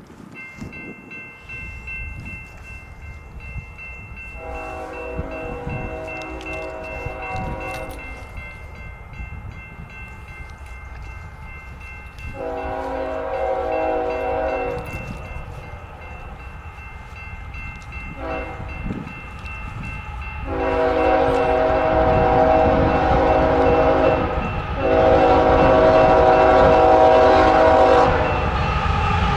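Diesel freight locomotive's multi-chime air horn sounding the grade-crossing signal: two long blasts, a short one, then a long one that is sounded again. Under the horn, the rumble of the approaching train grows steadily louder.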